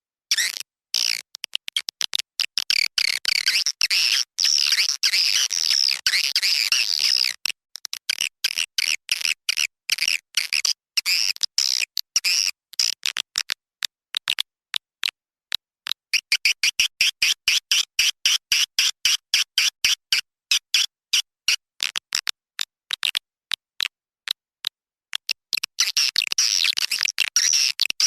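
Swiftlet lure-call recording: rapid, high twittering chatter of edible-nest swiftlets, chopped into many short pieces with sharp clicks between them. The chatter runs in denser stretches a few seconds in, around the middle and near the end.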